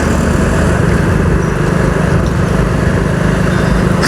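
Motorcycle engine running at a steady cruising speed, with an even rush of wind and road noise over the microphone.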